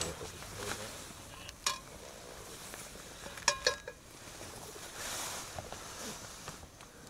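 Burger sizzling faintly in a small aluminium frying pan, with a sharp clink about a second and a half in and a few ringing metal clinks of a utensil against the pan around the middle.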